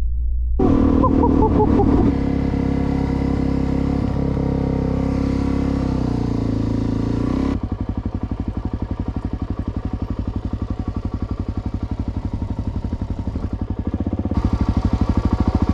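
Motorcycle engine running while riding, steady at first, then dropping to a slower, evenly pulsing beat about halfway through and getting louder again near the end.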